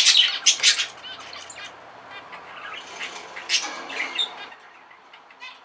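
Zebra finches singing and calling: a burst of loud, buzzy song syllables in the first second, then softer chirps that fade out after about four and a half seconds.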